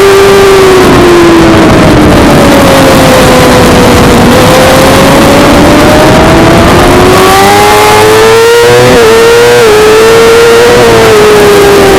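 Suzuki GSX-R600's inline-four engine running hard at high revs on track. The note sags for a few seconds, then climbs steadily under throttle, with two brief hitches about nine seconds in, and eases off near the end. A dense rushing noise sits under it.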